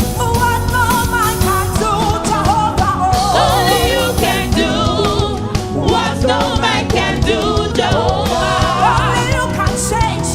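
Gospel music with singing over a full band: voices with vibrato and an insistent beat.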